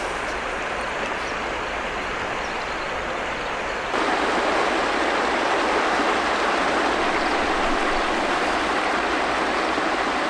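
River water running, a steady rushing hiss that jumps louder about four seconds in.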